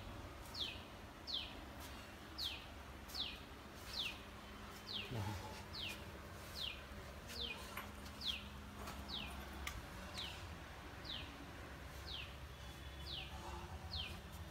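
A small bird calling over and over: a short, high chirp that slides downward, repeated a little more than once a second.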